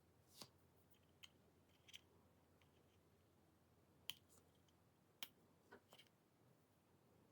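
Faint, scattered small clicks and taps, about seven in all, from small tools or phone parts being handled during repair work.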